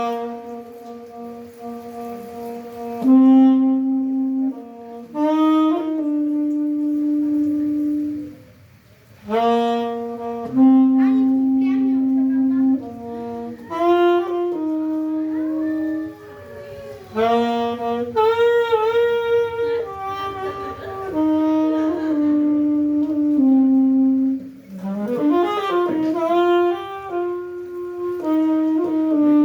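Solo saxophone playing a slow melody of long held notes separated by short pauses, with a few slides in pitch, including a rising scoop into a note about 25 seconds in.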